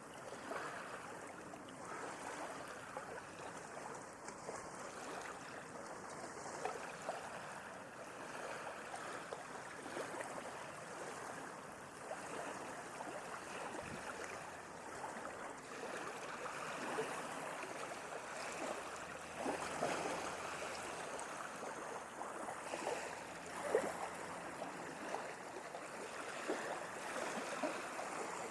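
Sea water washing and lapping in small waves: a steady wash with many little splashes and gurgles.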